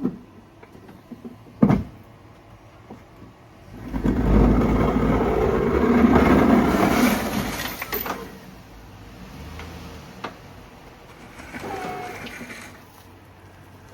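Snow-clearing vehicle at work: a sharp knock, then a loud rushing surge lasting about four seconds, then quieter running with a brief squeak near the end.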